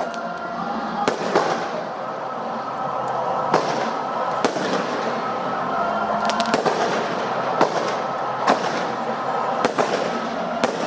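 Fireworks display: about a dozen sharp bangs of shells bursting, at irregular intervals, over a steady background din.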